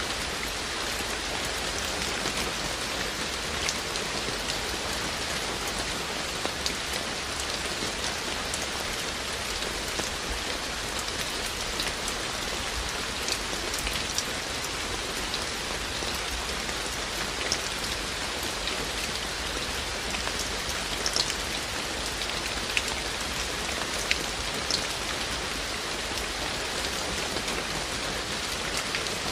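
Steady rain falling, an even hiss with scattered louder single drops ticking sharply close by every second or two.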